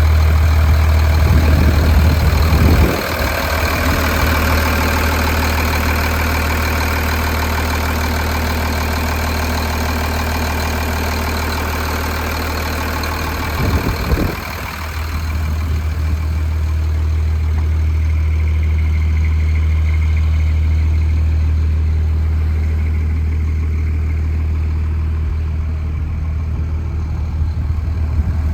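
A 2001 Superior fire truck's engine idling steadily, a deep hum that drops out briefly about three seconds in and again near the middle.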